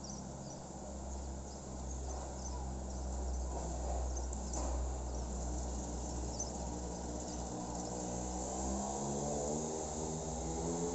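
Countryside dawn ambience: small birds or crickets chirping faintly and repeatedly over a steady low rumble. About halfway in, a pitched hum with several tones comes in and shifts up and down in steps.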